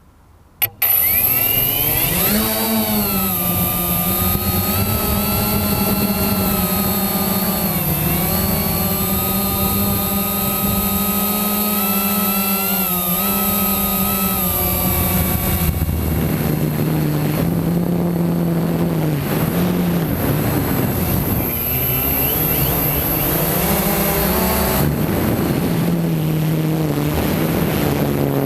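Quanum Nova quadcopter's brushless motors starting with a click under a second in, spinning up, then whirring steadily in flight. The pitch rises and falls with the throttle, over a constant high whine.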